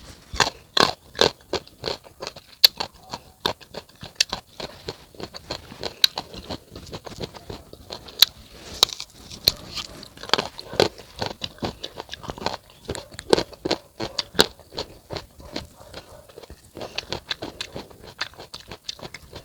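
Close-miked crunching and chewing of unripe fruit, a rapid run of sharp, crisp bite and chew sounds.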